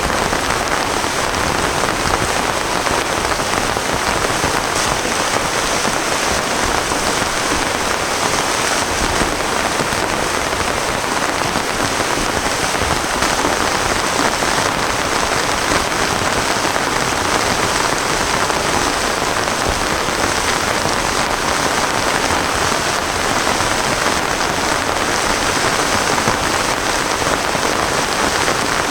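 Heavy rain falling steadily, a constant even hiss of drops with no let-up and no thunder.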